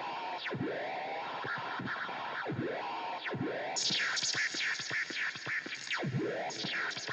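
Tape echo unit feeding back on itself with the strings untouched: repeated swooping glides that dive low and swing back up, about one a second, over a steady faint tone. About halfway in, a flurry of fast high whistles falling in pitch joins.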